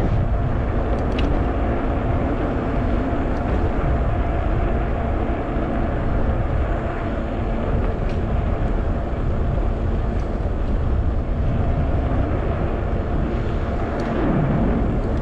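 Steady wind rush and rumble on the handlebar-mounted camera's microphone, with tyre noise from a 20-inch fat-tyre e-bike being ridden.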